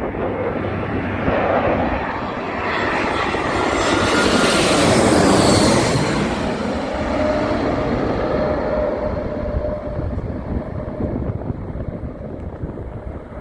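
Jet airliner on landing approach passing close by, its engine noise swelling to a loud peak about five seconds in and then slowly fading.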